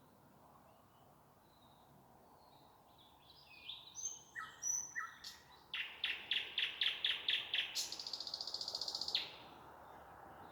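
Nightingale singing one song phrase. About three seconds in, soft high notes and whistles start. They lead into a run of loud repeated notes, about five a second, which ends in a fast trill that cuts off abruptly near the end.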